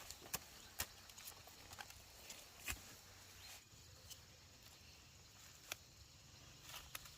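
Near silence broken by scattered faint, sharp clicks and taps, a dozen or so, the clearest near the start, at about two and a half seconds in and again near the end.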